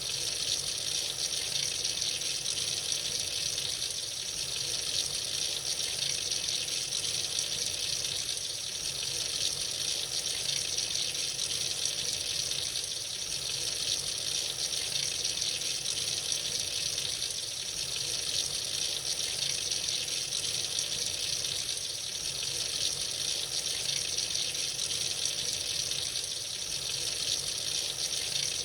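Tap running freely into a sink: a steady, unbroken hiss of flowing water.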